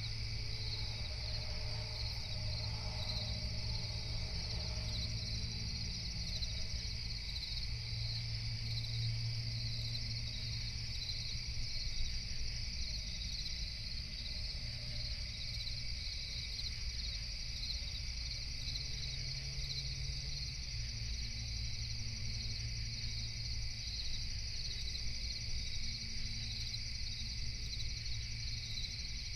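Night chorus of crickets and other insects chirping steadily without a break, over a low, steady hum.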